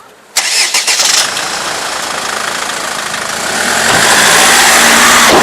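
Car engine starting and pulling away, getting louder about three and a half seconds in as it accelerates.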